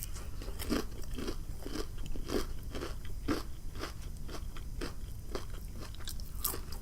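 Close-up chewing of crunchy fried food, a steady run of crisp crunches about twice a second.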